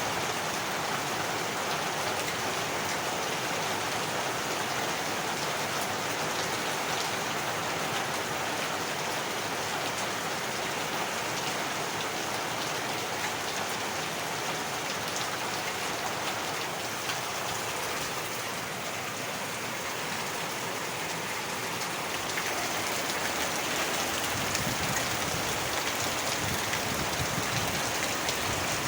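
Heavy rain falling steadily: a dense hiss with the patter of drops. It eases slightly a little past halfway and swells again near the end.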